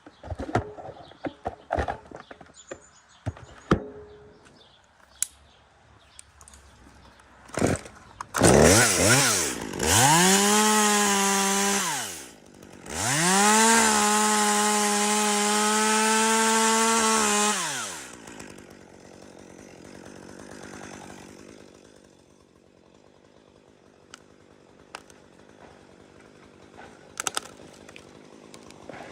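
Scattered light knocks and clicks, then a chainsaw revs up to high speed, dips briefly and revs again, holding steady for about five seconds before winding down.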